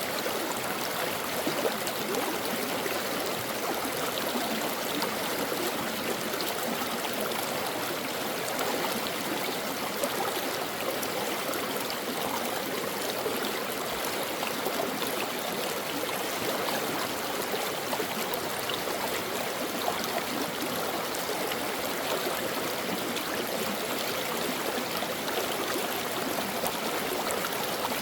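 A stream running over rocks: a steady rush of flowing water with small gurgles and splashes.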